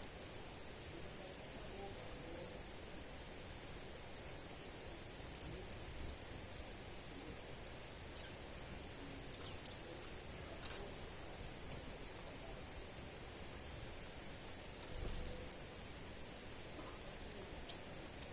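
A small bird calling with short, very high, thin chirps at irregular intervals, some singly and some in quick runs of two or three, over a faint steady background hiss.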